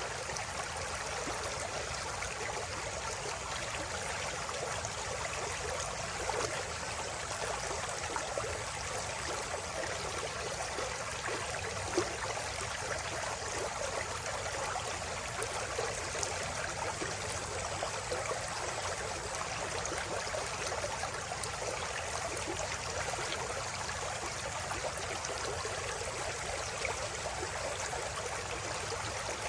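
A river stream flowing and babbling over rocks: a steady rush of running water with small splashes and a few brief clicks.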